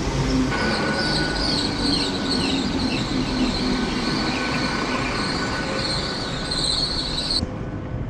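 Train running on rails with a steady rumble and high, wavering wheel squeal, which cuts off abruptly near the end.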